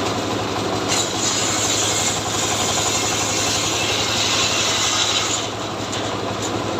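Two-stroke chainsaw running at a steady speed. From about a second in to about five and a half seconds, a harsh high hiss rides over the engine.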